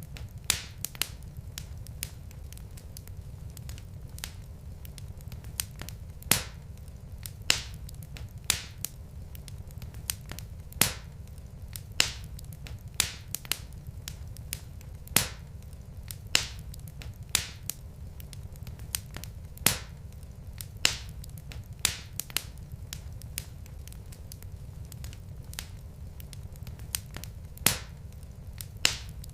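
Log fire in a fireplace crackling: irregular sharp pops and snaps, one or two a second, over a steady low rumble of the burning wood.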